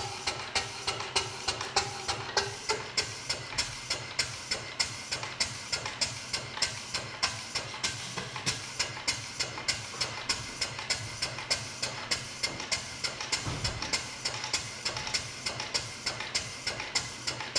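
A 1½-inch scale live-steam model traction engine running on steam, its exhaust chuffing in an even beat of about three a second. A faint steady tone stops about two and a half seconds in.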